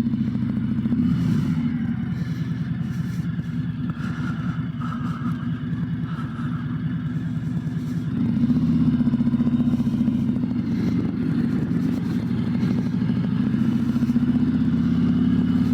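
Harley-Davidson Road Glide's V-twin engine running as the bike rides off at low speed, the revs picking up about a second in and again about eight seconds in.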